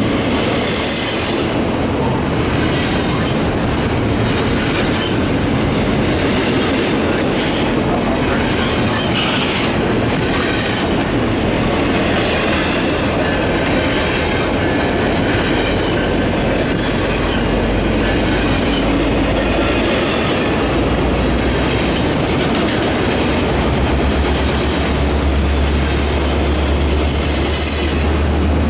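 Double-stack intermodal freight cars rolling steadily past, wheels clacking over the rail joints and squealing faintly against the rail. A low hum builds over the last several seconds.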